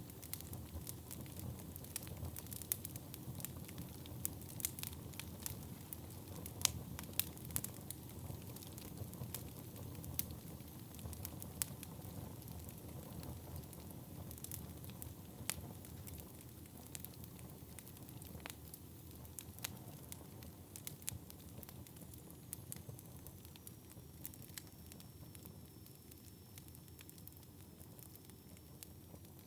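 Wood fire burning in a fireplace: a steady low rush of flame with frequent sharp crackles and pops of burning logs, the crackling growing sparser and quieter toward the end.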